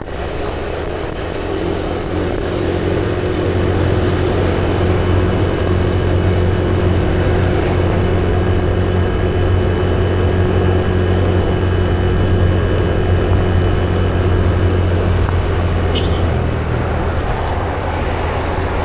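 A vehicle engine running steadily on the move, its low hum under a wash of road and wind noise, a little louder after the first few seconds; a brief click comes near the end.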